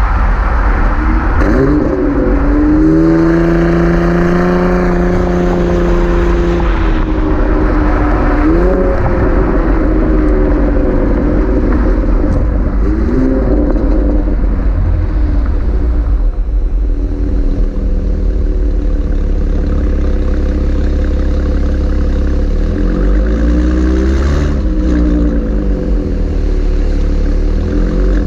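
Chevrolet Camaro 3.6-litre V6 through a Borla ATAK axle-back exhaust, running under way. The engine pitch climbs about two seconds in and holds for several seconds, then rises and falls a few more times, over a constant low rumble.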